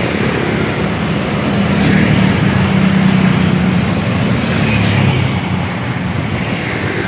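Truck engine running with road noise: a steady low hum under a rushing noise, swelling a little in the middle and easing off near the end.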